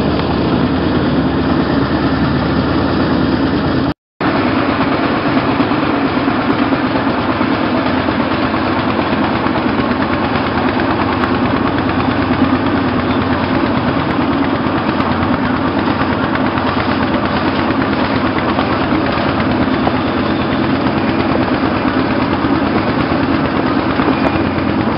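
Motorboat's diesel engine running steadily. The sound cuts out completely for a split second about four seconds in.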